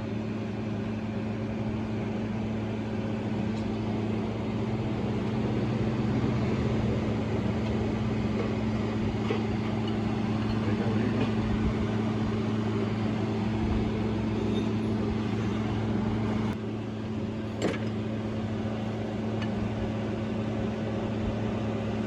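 A steady low machine hum with a constant pitch and its overtone, running without change. Near the end it dips briefly in level, and there is a single sharp knock.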